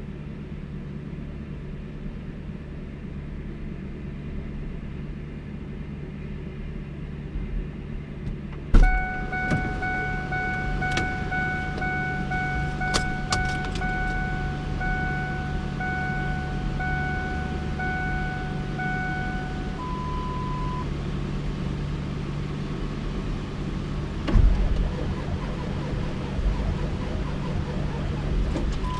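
Truck engine idling steadily after a cold start. About nine seconds in there is a sharp thump, then a dashboard warning chime pulses in a steady rhythm for about eleven seconds and changes to a single held tone. A second thump comes near the end.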